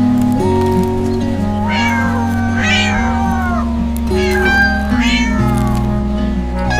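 Cat meowing several times in short gliding calls over background music with sustained notes and a steady bass.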